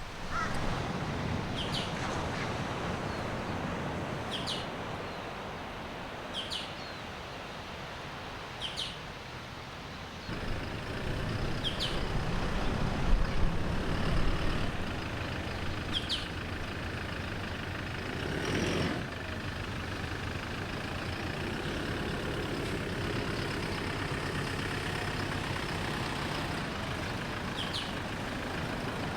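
A bird chirps repeatedly, short high calls every couple of seconds, over a steady low rumble that grows louder about ten seconds in.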